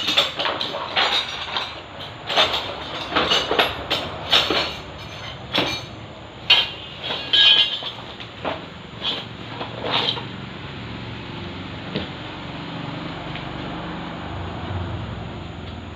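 Irregular knocks and clinks of tools and metal parts being handled, with a single knock near twelve seconds, followed by a steady low hum.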